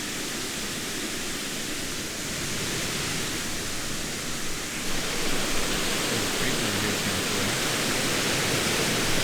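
Steady rush of falling water from a waterfall, growing louder about five seconds in.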